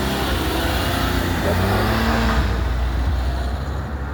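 A car engine accelerating past, a loud steady low rumble.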